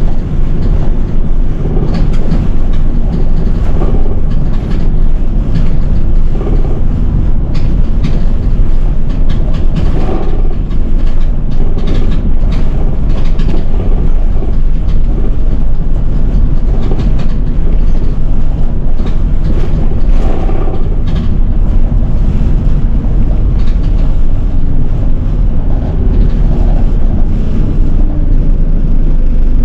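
A city bus driving along, heard from inside the cabin: a steady low drone from the engine and road, with frequent irregular rattles and knocks from the bus body.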